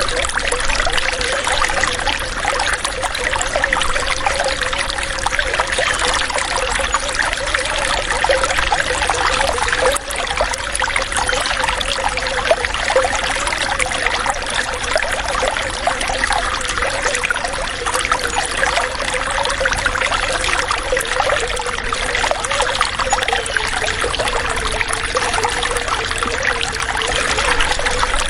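Water running and trickling steadily, a continuous bubbling splash with a low gurgle wavering underneath.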